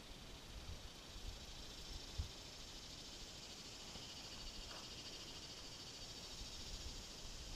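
Faint evening insect chorus: a steady, high, finely pulsing buzz that swells slightly toward the end, with one soft thump about two seconds in.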